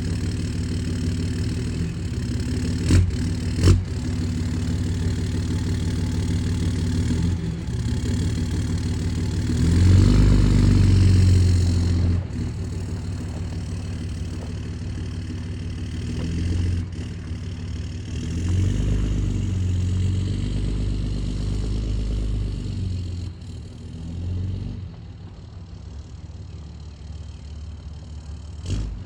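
Third-generation Cummins inline-six turbodiesel idling, revved up twice, about ten and nineteen seconds in, each time settling back to idle, and running quieter over the last few seconds. Two sharp knocks sound about three seconds in.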